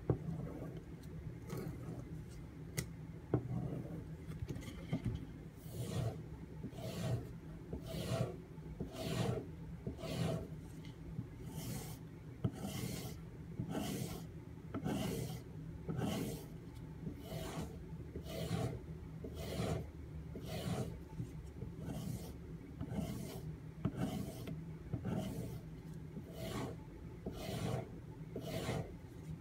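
Knife blade being stropped on a homemade leather strop mounted on a wooden stake: a regular back-and-forth rubbing, about one stroke a second, polishing the AUS-8 steel edge after the 1000-grit stone.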